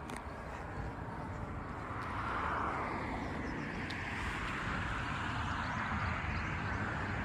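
A steady rushing noise of a passing vehicle, swelling about two seconds in and holding, over a low rumble.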